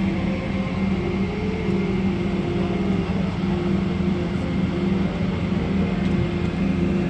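Steady drone inside a Boeing 777 passenger cabin on the ground before takeoff: the engines' and air conditioning's noise, with a few steady hum tones under it.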